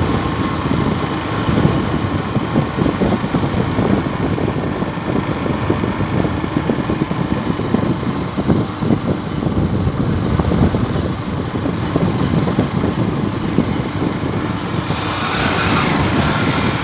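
Motor vehicle on the move: a steady engine and road rumble, with a brief rise in hiss near the end.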